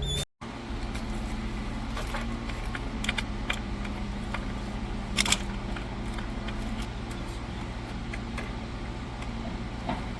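An engine running steadily, with scattered clicks and knocks and a louder clatter about five seconds in.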